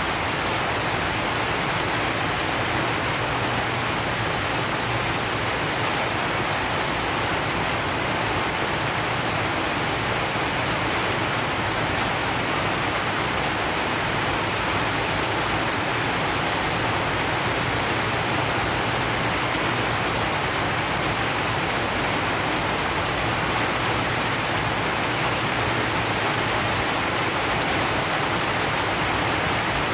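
Steady rain on a zinc sheet roof: an even, unbroken hiss with no single drops or knocks standing out.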